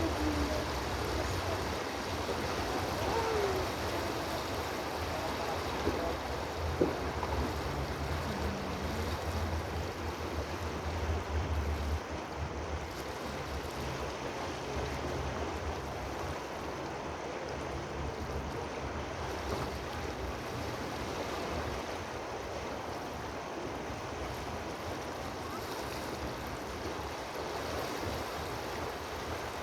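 Water rushing steadily, with a low rumble underneath that drops away about twelve seconds in and a single click about seven seconds in.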